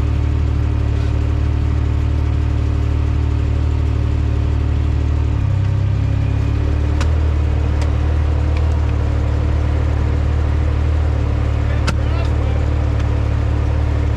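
Off-road vehicle's engine running steadily at low speed, its hum shifting in pitch about five and a half seconds in. A few sharp clicks sound over it.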